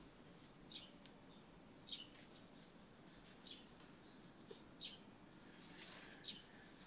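A bird chirping faintly: five short, slightly falling chirps about every second and a half.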